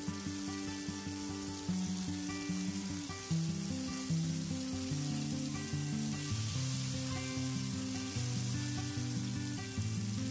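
Ground dried-chilli paste sizzling in hot oil in a wok, a steady hiss as it is stirred with a wooden spatula and lemongrass stalks are mixed in. Background music with held notes plays over it.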